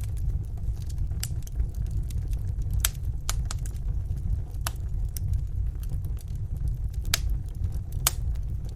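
Wood fire burning in a fireplace: a steady low rumble with sharp crackles and pops at irregular moments, two of them louder than the rest, about 3 and 7 seconds in.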